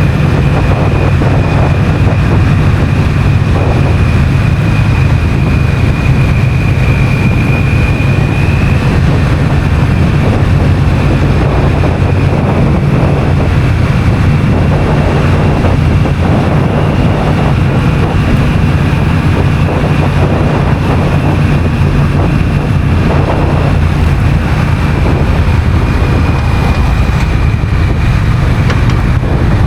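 Honda CMX1100 Rebel's parallel-twin engine running at a steady cruise, with wind noise on the bike-mounted microphone.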